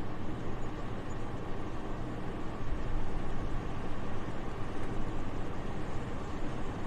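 Soft, steady winter wind: an even, airy rush with a low rumble underneath, with no gusts, rustling or other detail.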